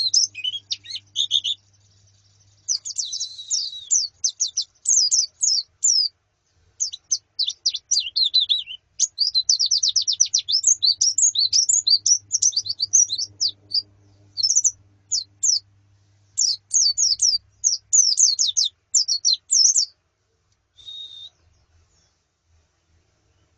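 A group of white-eyes (pleci) twittering in fast runs of high, thin chirps, phrase after phrase with short breaks. Near the end the calls stop, apart from one short call.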